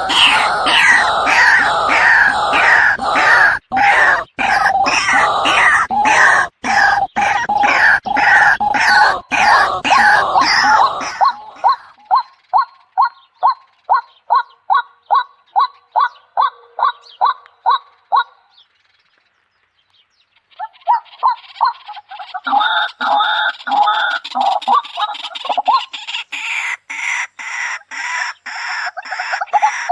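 Birds calling loudly with repeated fowl-like calls. About eleven seconds in, the calls thin to a steady series of short notes, about three a second. These stop for a second or two, then dense calling starts again.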